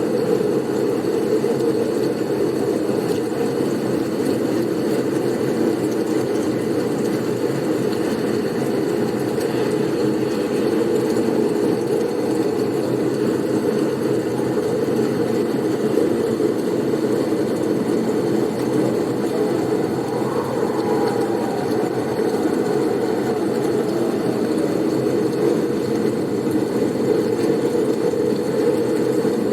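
Blizzard wind: a steady low rushing, with a faint tone that rises and falls about twenty seconds in.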